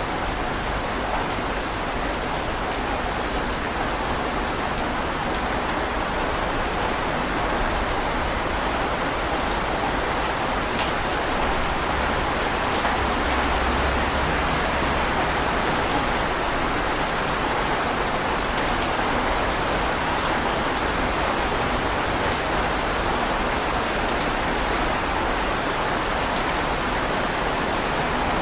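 Heavy rain falling steadily, an even dense hiss with scattered drop ticks.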